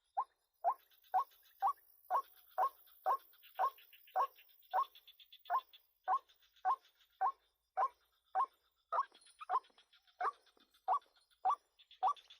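White-breasted waterhen calling: a steady series of short, identical notes, about two a second.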